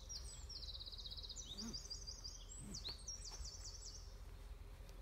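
Small songbird singing high, fast trilled phrases of quickly repeated notes, several in close succession, fading out near the end, over a steady low background rumble.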